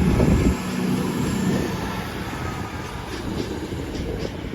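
CrossCountry Class 220 Voyager diesel multiple unit running through the station, its underfloor diesel engines droning with a faint higher whine. The sound is loudest at the start and fades steadily as the train moves away.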